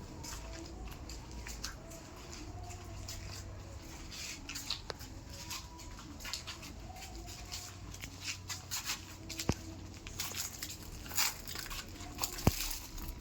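Scattered light rustles and soft ticks, with a few sharper clicks spread through, over a faint low hum.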